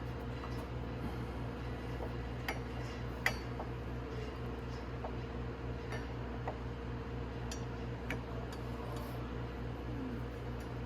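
Scattered light metallic clicks and taps as motorcycle brake caliper parts and tools are handled, the loudest about three seconds in, over a steady low hum.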